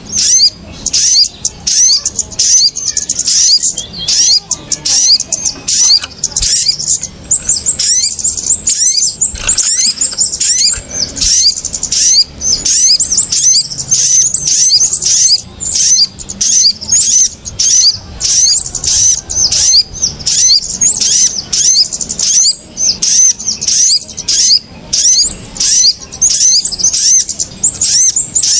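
Bird-lure recording of small birds, kemade and sogon, calling in a noisy chorus: rapid, high-pitched chirps and twitters repeated several times a second without a break.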